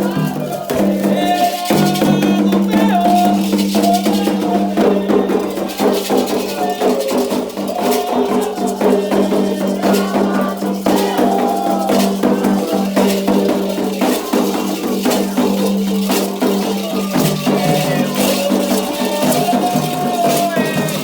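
Candomblé ritual music: rattles shaken in a fast steady rhythm over drums, with voices singing a chant.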